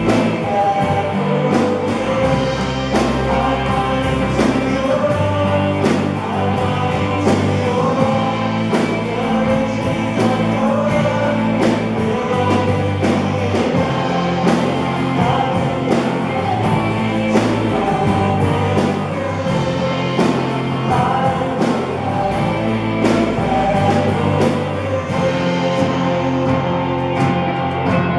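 Live church worship band playing a contemporary worship song: singing over guitar and a steady beat.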